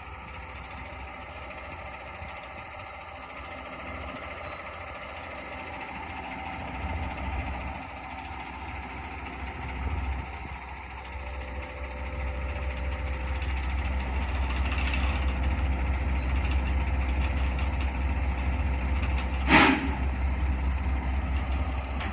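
Diesel engine of a 2008 Mack GU713 dump truck running, its low rumble growing louder from about a third of the way in. One brief, sharp burst of sound comes near the end.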